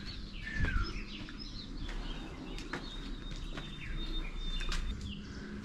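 Small birds chirping in short curved calls, with a thin high note held for about two seconds midway. Scattered light clicks and knocks run through it.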